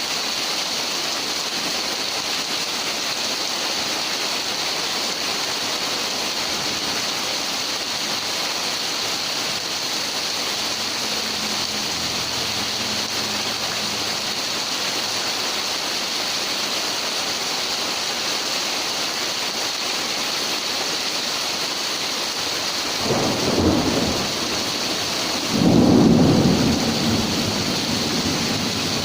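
Heavy rain pouring steadily in a thunderstorm. Near the end come two loud thunderclaps a couple of seconds apart, the second louder and rumbling on for a few seconds.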